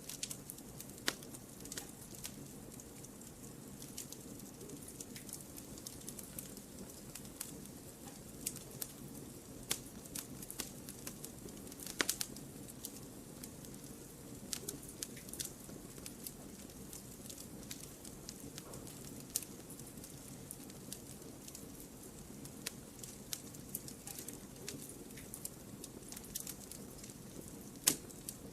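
Wood fire crackling in a fireplace: irregular sharp pops and snaps over a low steady rush, with the loudest pop about twelve seconds in and another near the end.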